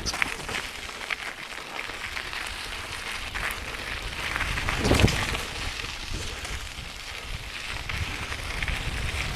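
Mountain bike tyres rolling over gravelly desert dirt trail, a steady crunching hiss dotted with small clicks and rattles from the bike, with one heavier jolt about five seconds in.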